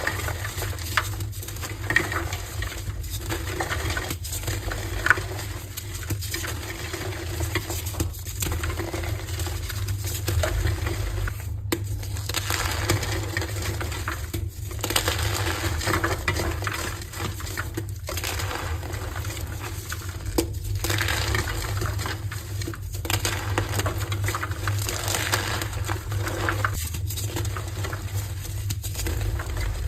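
Coloured heart-shaped blocks of gym chalk being crushed and crumbled by hand, a steady crisp crackling made of many small cracks, with brief pauses between squeezes every second or few.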